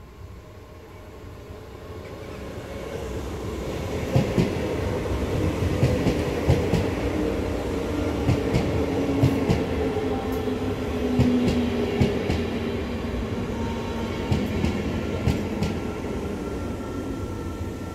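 NS Sprinter (SGMm) electric multiple unit approaching and passing close by. It builds up over the first four seconds into a steady rumble, with the wheels clicking over the rail joints and a low humming tone running through it.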